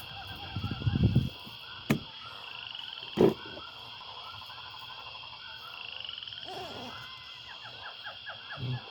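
A chorus of calling frogs, many short calls overlapping in a steady stream. Over it come a few knocks and bumps from objects being handled, the loudest a thud about three seconds in.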